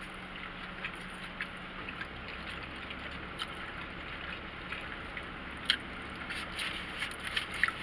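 Eating sounds: chewing with scattered small clicks and crinkles that come more often in the second half, over the steady low hum inside a car.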